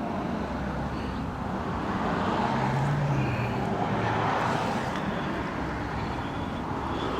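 Road traffic: a vehicle passing by, its noise swelling to a peak around the middle and then easing off.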